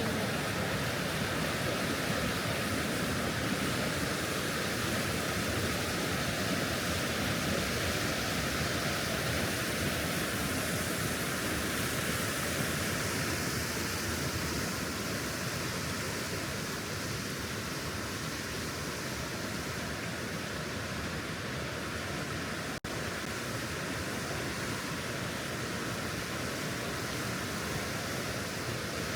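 Steady rushing of the Partnach, a fast mountain stream fed by glacial meltwater, as an even unbroken noise. It cuts out for an instant about three-quarters of the way through.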